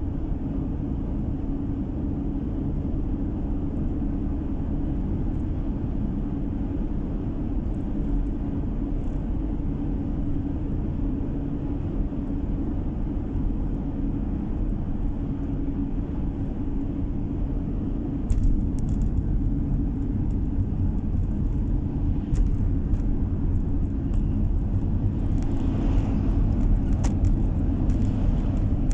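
A car driving, with steady engine and tyre road noise as a low rumble. About two-thirds of the way through it grows a little louder, with a few faint clicks near the end.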